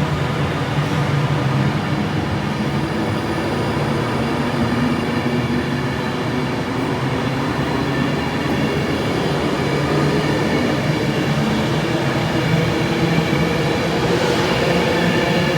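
A train running at the station platform, a steady rumble with held tones, and a whine that rises near the end as it draws power.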